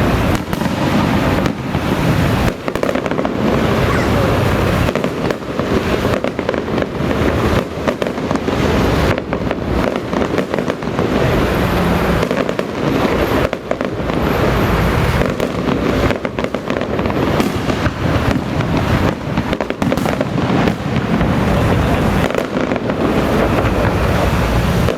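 Firecrackers going off without a break: a dense, continuous crackle of rapid bangs.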